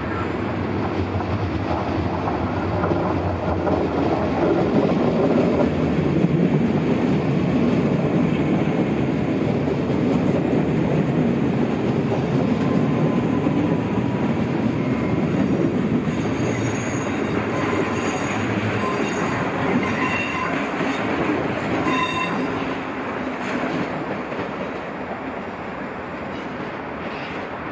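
NS double-deck electric train passing close by along a station platform: a rising rumble of wheels on rails that holds, with short high wheel squeals in the last third, then fades away near the end.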